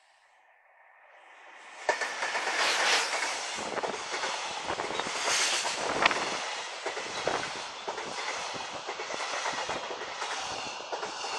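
Train running past, its steel wheels clattering over the rail joints. The sound swells from near silence, turns loud suddenly about two seconds in and keeps up a dense rush of clacks.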